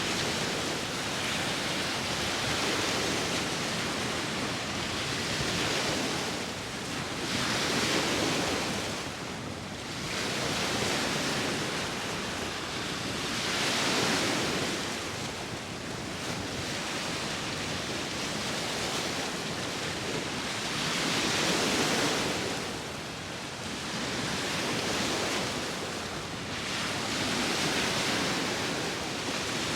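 Sea waves washing onto the shore in slow swells every few seconds, with a steady hiss of surf and wind between them.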